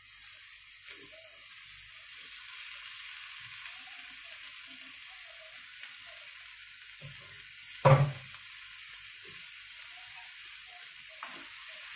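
Onions and dried prawns frying in oil in a pan: a steady sizzle, with one sharp knock about eight seconds in.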